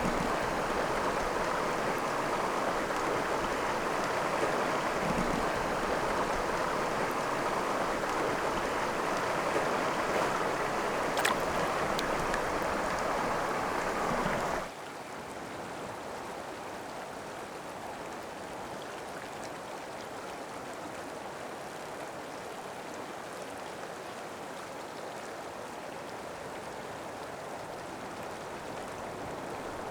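Mountain creek water rushing steadily, then dropping suddenly about halfway through to a quieter, softer flow. A single brief click sounds shortly before the drop.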